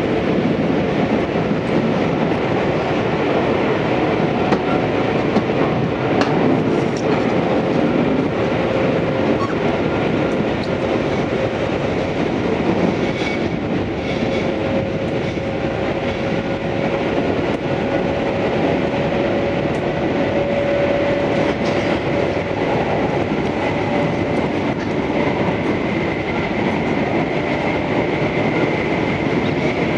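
Tobu 634 series electric train running at speed: a steady rumble of wheels on rail with scattered rail-joint clicks. A faint high tone drifts slowly upward and grows stronger in the last third.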